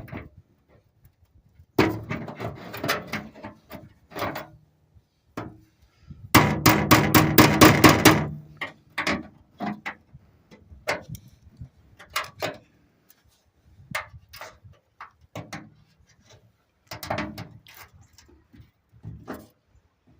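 Metal hand tools and small metal parts being handled: scattered clicks and taps, with a rapid clattering rattle for about two seconds near the middle.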